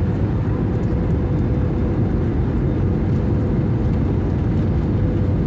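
Steady cabin noise of an Airbus A320-200 airliner in flight: an even low rumble of engines and airflow, with a faint steady tone running through it.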